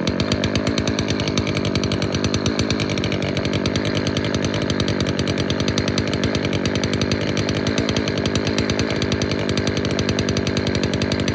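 Small two-stroke string trimmer engine running steadily right after a cold pull-start, on choke with the throttle held.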